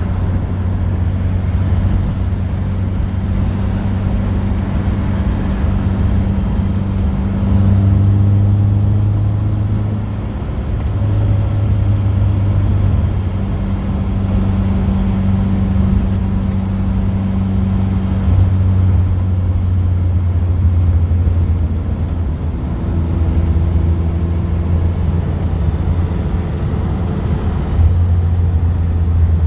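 Car engine running while driving, heard from inside the car. It is a steady low hum whose pitch and loudness change in steps several times, as the engine speeds up and settles.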